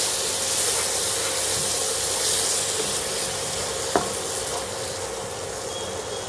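Chopped tomatoes and onions sizzling in oil in a non-stick kadai while a wooden spatula stirs them, the sizzle fading slowly. A single sharp knock about four seconds in.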